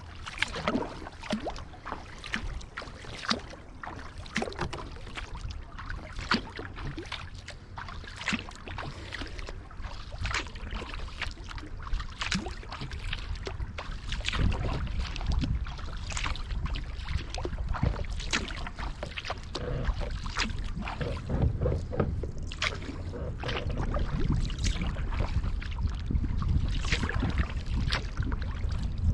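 Kayak paddle strokes dipping into river water, with a steady run of drips and small splashes off the blades over a low rumble that grows louder from about halfway through.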